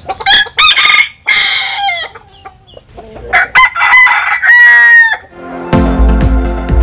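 Bantam rooster crowing, a few short broken calls and then one long held crow that drops off at its end. Electronic music with a steady beat comes in near the end.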